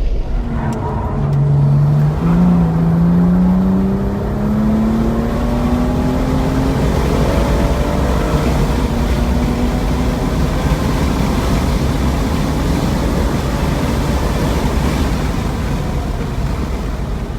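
BMW M235i's turbocharged 3.0-litre inline-six pulling hard on a track lap, its note climbing steadily for several seconds, then lost under steady wind and tyre noise at speed.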